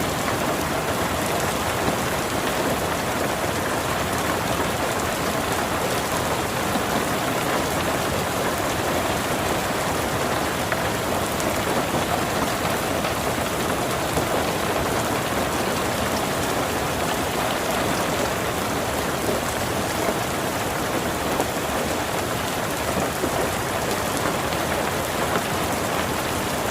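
Steady rain falling: an even, dense hiss of water with many small scattered drop ticks.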